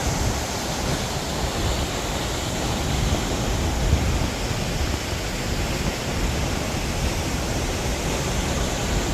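Waterfall roaring: a loud, steady rush of heavy falling water with no break.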